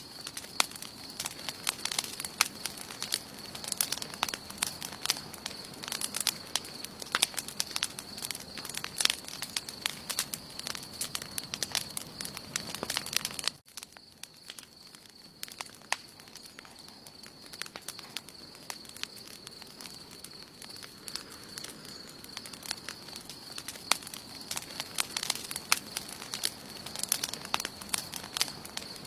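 Wood campfire burning, crackling with dense sharp snaps and pops. Just under halfway through the crackling drops away suddenly and comes back sparser, growing denser again near the end, with a steady thin high tone underneath.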